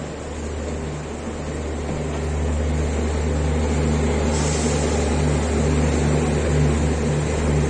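Steady low engine drone of a passenger train, with a pulsing hum above it, slowly growing louder.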